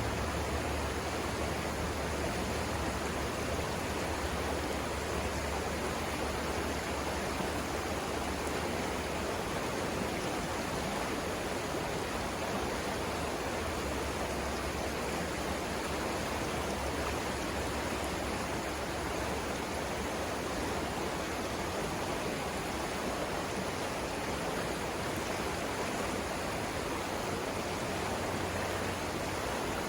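River rapids on the Savannah River: water rushing steadily over rocks, with a low rumble underneath.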